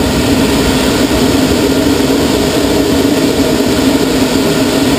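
Steady, loud rush of airflow over a glider's canopy, heard inside the cockpit as the sailplane picks up speed through an aerobatic loop.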